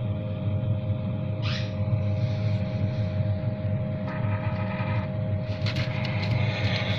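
Grey parrot chick making a short raspy call about a second and a half in, a brief tonal call around four seconds, and scratchy clicks and rustling near the end, all over a steady low machine hum.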